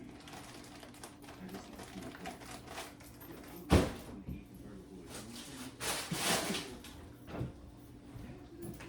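A sharp knock about four seconds in, then a short clatter a couple of seconds later, like objects being handled and set down.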